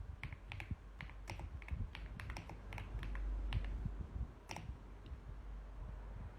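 Typing on a mechanical keyboard: irregular, quick keystroke clicks that stop after about four and a half seconds, with one last key near five seconds. A low rumble swells under the typing around three seconds in.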